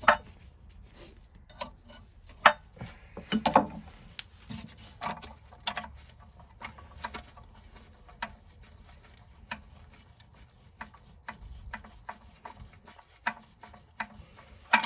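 Irregular metal clicks and light knocks of hand tools and parts as a small gear on an old Lister engine is worked slowly off its shaft, with a few sharper knocks, the loudest about two and a half seconds in.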